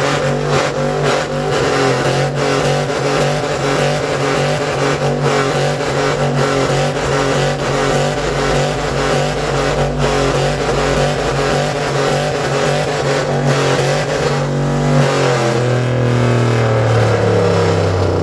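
A car's exhaust in an exhaust competition, its engine held at high revs with a steady, loud note and scattered pops for about fifteen seconds, then the revs fall away near the end.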